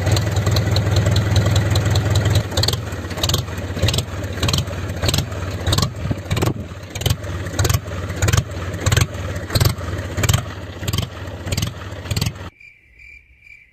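Small engine of a home-built mini tractor running with a regular pulsing beat, a few beats a second, that slows slightly. It stops abruptly near the end.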